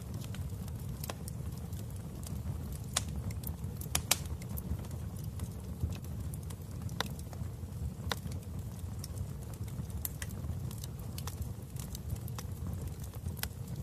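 Wood fire crackling in a fireplace: a steady low rumble of the flames with irregular sharp pops and snaps, the loudest a pair about four seconds in.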